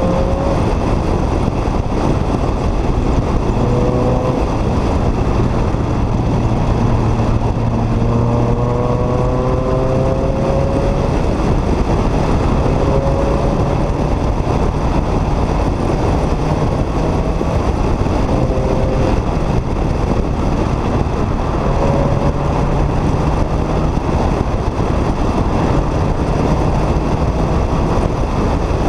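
Renault Clio 3 RS's two-litre four-cylinder engine through a K-tec KTR aftermarket exhaust, accelerating repeatedly: the pitch climbs, drops, and climbs again several times as it pulls through the gears. A steady rush of road noise runs underneath.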